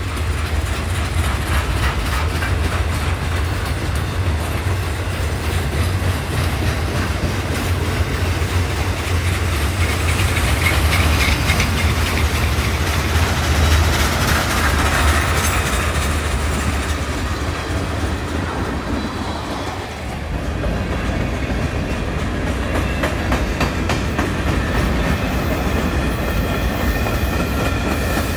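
Railroad cars rolling past with a steady rumble and clickety-clack of wheels over the rail joints, easing briefly about two-thirds of the way through. Faint wheel squeal comes in over the last few seconds.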